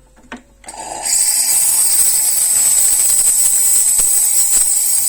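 Steam wand of a Klarstein Espressionata Gusto espresso machine starting to let out steam about a second in, then a loud, steady hiss.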